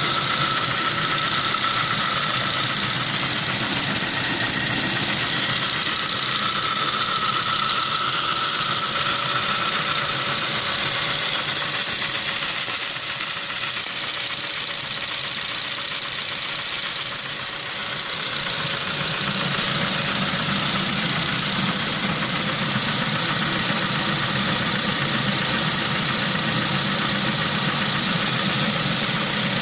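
Saab 9-3 engine running with a bad, very loud lifter tick from the top of the engine: a hydraulic lifter stuck with oil gunk on a high-mileage engine.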